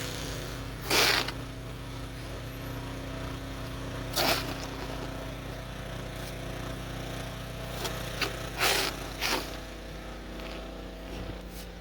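Snow shovel scraping in four short strokes, over a steady low machine hum.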